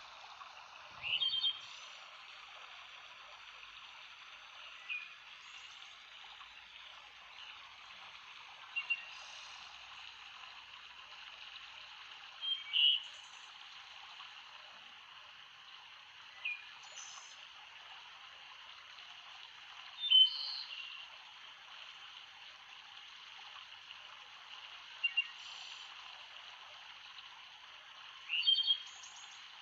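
Steady rush of flowing water with a bird giving short calls every three to four seconds, eight calls in all.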